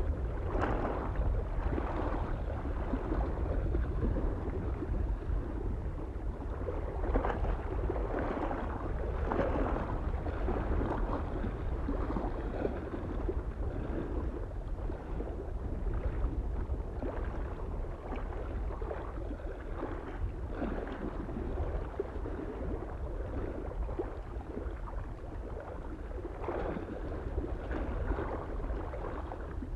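Small waves lapping and splashing irregularly against a lake shore, over a steady low rumble of wind.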